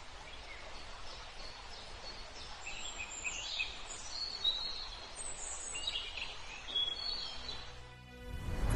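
Small birds chirping in short, high calls over a steady outdoor background hiss, the calls bunched in the middle few seconds.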